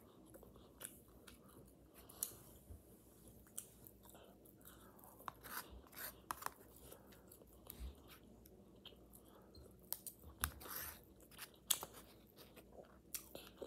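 Close-miked chewing of a quesadilla and vegetables: faint, irregular wet mouth clicks and smacks, with a few louder ones near the end. A plastic fork scrapes and taps in a foam takeout container.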